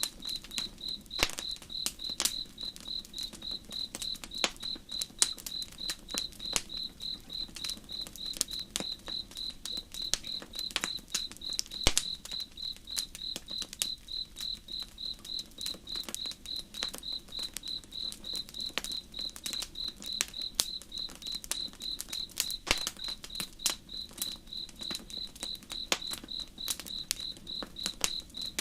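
Crickets chirping in a steady, evenly spaced rhythm of a few chirps a second. Campfire crackling and popping comes at irregular moments over a faint low rush.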